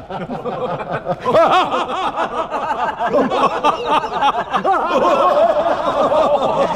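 A group of voices laughing together in a long run of rapid, overlapping laughs that gets louder about a second in.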